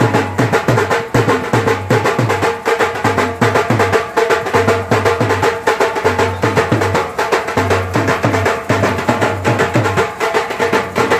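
Live Adivasi band music: fast, dense drumming with repeated low drum thumps under held melody tones.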